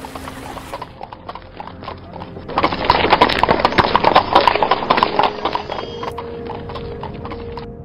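Horse hooves clip-clopping in a steady run of hoofbeats, the horse pulling a cart; the hoofbeats swell loudest for a couple of seconds in the middle, then ease off.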